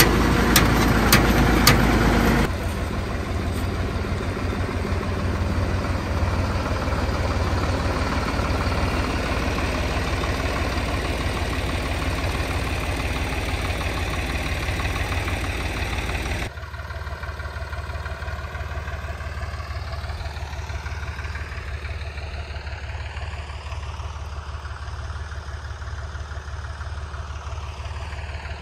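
Zetor 3011 tractor's diesel engine running steadily. Sharp regular knocks sound over it for the first couple of seconds, and the sound drops abruptly twice, at about 2.5 s and 16 s, to a quieter, hollower engine hum.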